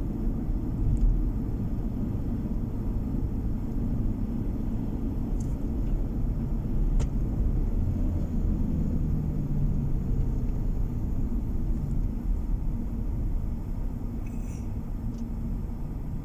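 Steady low rumble of a car's road and engine noise heard from inside the cabin while driving, with a few faint ticks.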